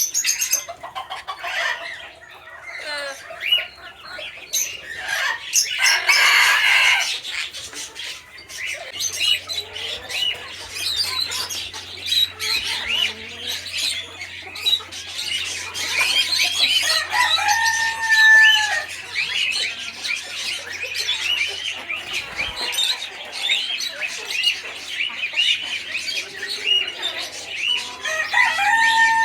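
Aviary bird chatter: constant rapid twittering chirps, a harsh squawk about six seconds in, and chickens clucking. A rooster crows twice, about halfway through and again at the end, each crow held and then dropping away.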